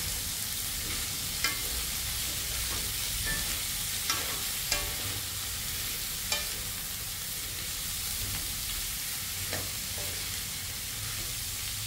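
Zucchini, bottle gourd and sardines sizzling in oil in a metal wok, stirred with a wooden spatula that knocks and scrapes against the pan several times.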